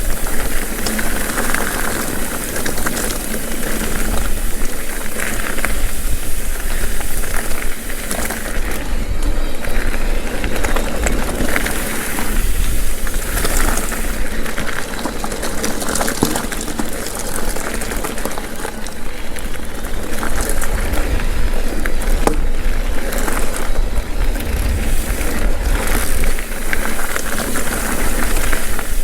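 Mountain bike riding fast down a dirt trail: continuous tyre noise with frequent rattles and knocks as the bike rolls over rocks and roots, and wind rumbling on the microphone.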